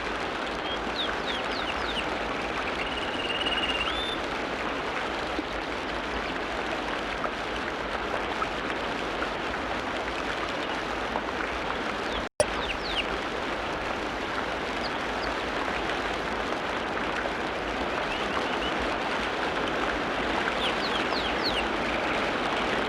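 Forest songbirds chirping with short, quick downward-sweeping notes and one held whistle, over a steady rush of running water. The birds call a few seconds in, again around thirteen seconds, and near the end; about twelve seconds in the sound cuts out for an instant with a sharp click.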